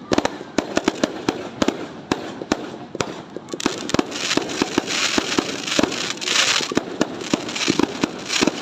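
Fireworks going off in rapid succession: many sharp bangs and pops, a few each second. From about three and a half seconds in, they are joined by stretches of hissing crackle.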